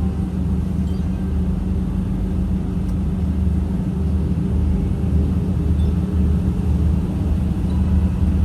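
Airliner cabin noise before takeoff: a steady low hum and rumble from the idling jet engines and cabin air, with a faint pulsing throb underneath.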